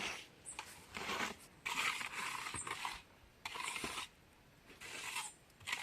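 Repeated gritty scraping strokes of a tool working through a sand-and-cement mortar mix, about five strokes with short pauses between them.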